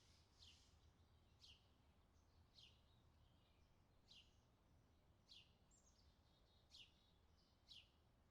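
Very faint bird calls: seven short chirps sweeping down in pitch, roughly a second apart, with softer twittering between them over a low steady hum.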